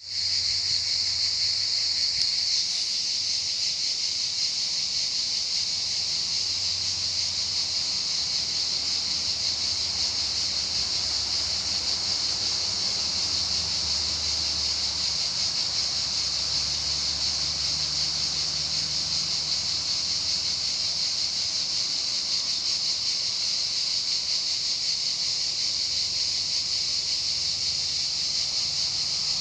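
A chorus of cicadas buzzing as one loud, steady, high-pitched drone that never lets up.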